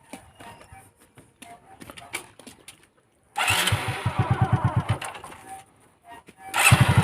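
Motorcycle engine being cranked in two bursts of rapid, even chugging, the first about a second and a half long, a little over three seconds in, and the second starting near the end, without catching: the bike is out of petrol.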